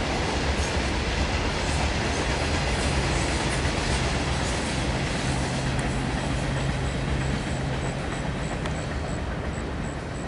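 Cars of a Union Pacific Herzog rock train, hopper cars and a conveyor car, rolling by with a steady rumble and clatter of wheels on the rails, easing slightly near the end. A steady low hum joins about two seconds in and stops about eight seconds in.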